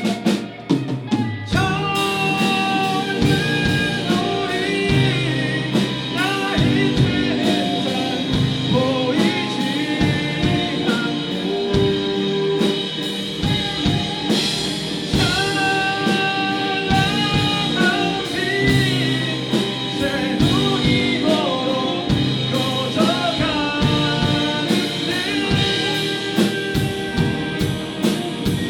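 Rock band playing live, with a sung melody over electric guitars, bass, drum kit and keyboard. The band drops out briefly at the start and comes back in about a second and a half in.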